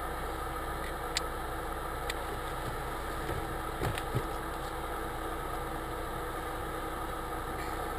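Car engine idling steadily, heard from inside the cabin, with a few faint clicks.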